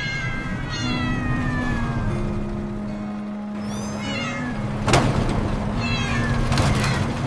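A cat meowing several times, each call falling in pitch, with a sharp click about five seconds in.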